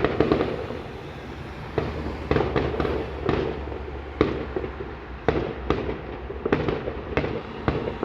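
Distant fireworks going off in quick succession: a dense string of sharp bangs and booms, about a dozen of them standing out, over a continuous rumble of further explosions echoing around.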